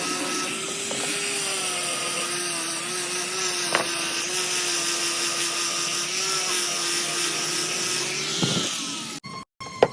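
An electric power tool running steadily at high speed with a constant whine, then spinning down about a second before the end, followed by a brief cut to silence.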